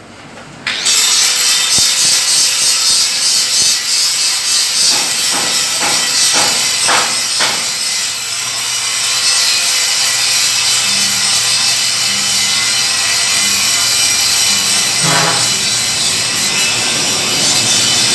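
Angle grinder starting up about a second in and grinding the metal of a truck's rear tailgate: the motor's whine rises then holds steady under a loud, harsh grinding hiss.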